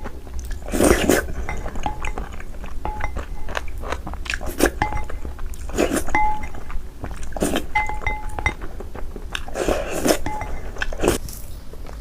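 Close-miked chewing and biting of food, with irregular crunches and wet mouth smacks; the loudest bites come about a second in and again around ten seconds.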